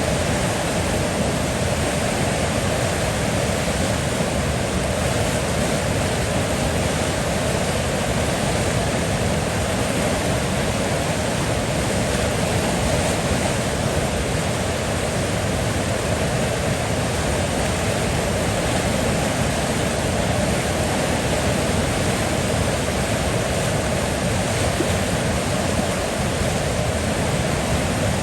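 River water flowing in a steady, unbroken rush, with no separate splashes or gurgles standing out.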